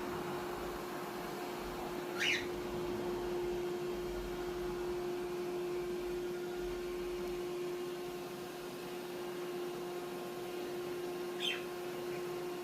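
Two short, shrill cockatiel calls, one about two seconds in and one near the end, over the steady hum of a robot vacuum running.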